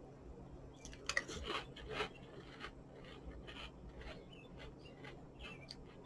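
Crunching of a mouthful of Peeps cereal being chewed, a quick run of crunches about a second in, then sparser, softer crunches.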